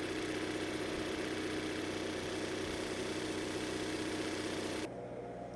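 Farm machine's diesel engine idling steadily with a low hum. The sound drops and thins suddenly near the end.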